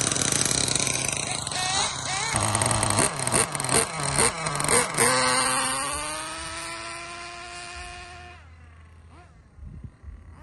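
Small nitro RC car engine running hard with a string of quick throttle blips, then a steady high whine that rises in pitch and holds before fading out about eight seconds in.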